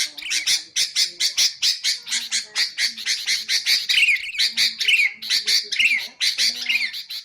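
Sooty-headed bulbuls chattering: a fast, steady run of short harsh notes, about five a second, joined from about four seconds in by clearer down-slurred whistled notes roughly once a second.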